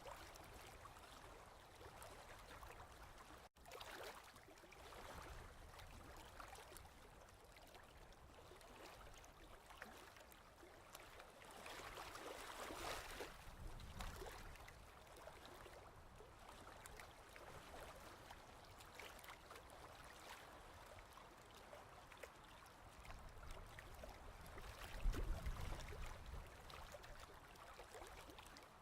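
Faint ocean waves washing in, a steady hiss of water that swells twice, with a moment of silence early on where the recording cuts.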